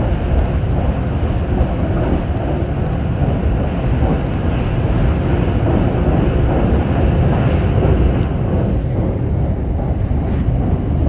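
Haruka airport express electric train running at speed, heard from inside the carriage: a steady, loud rumble of wheels and running gear on the track.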